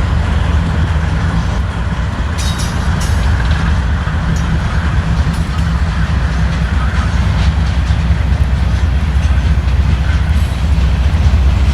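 A train running by, giving a steady low rumble, with a few wheel clicks over the rails about two to three seconds in.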